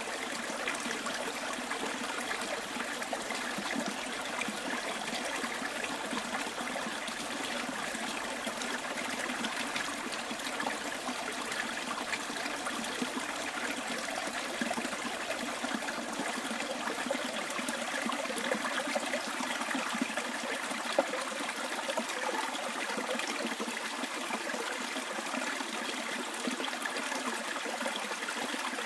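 Small bush stream trickling and babbling over stones, a steady bright splashing with small gurgles, one slightly louder splash near the end.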